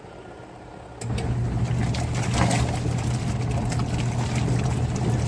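Compact twin tub washing machine motor starting up about a second in and then running with a steady hum and scattered clicks.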